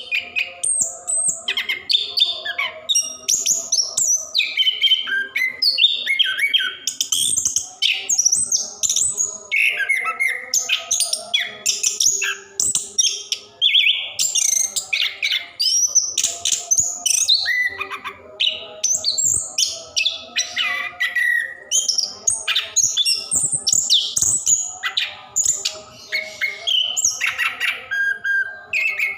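Chestnut-capped thrush (anis kembang) singing nonstop: a long rolling song of rapid, varied chirps, trills and whistled slides with hardly a pause.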